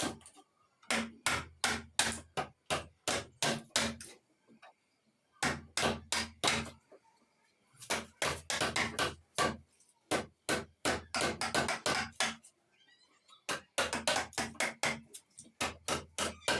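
Hammer blows on wood in quick runs of about four strikes a second, with short pauses between runs, as in door-making woodwork.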